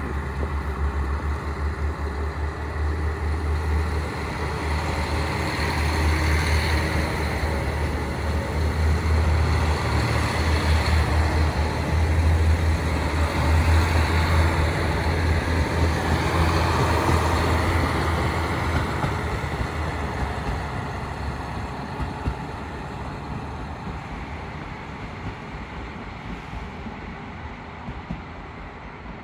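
Diesel train running past, its deep engine drone building over about ten seconds, strongest midway, then fading steadily.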